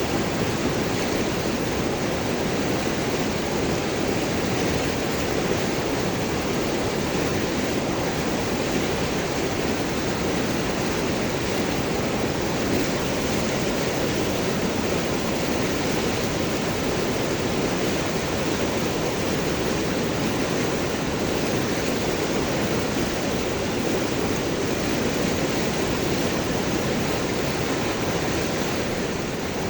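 River water flowing and gurgling over and between large rocks: a steady, dense rush.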